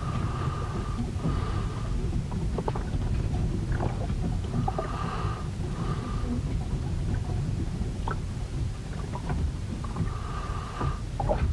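Storm recording aboard a wooden ship: a constant low rumble of wind and waves working the hull, with scattered knocks and short high-pitched creaks that come back every few seconds.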